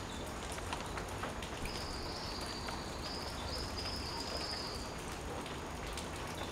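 Rain pattering on leaves, a steady hiss with scattered drip ticks. From about two seconds in, a high, thin call is held for about three seconds, with two brief breaks.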